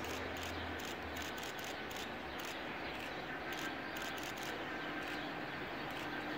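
Faint sound of a distant train approaching over a steady background hiss, with a low steady hum coming in about five seconds in.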